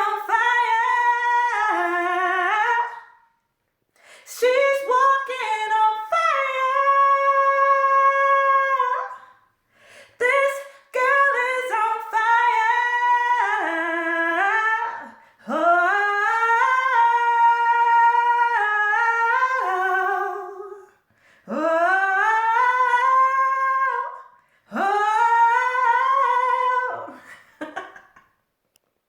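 A woman singing unaccompanied in a small room: wordless melodic runs in about six phrases, with short pauses for breath between them.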